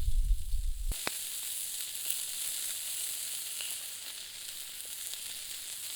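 Pork sausages sizzling on the Biji over a campfire, a steady high hiss. A low rumble on the microphone stops abruptly about a second in.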